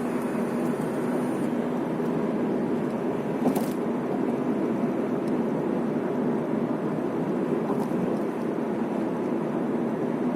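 Steady road and engine noise inside a moving car's cabin, with a faint low hum.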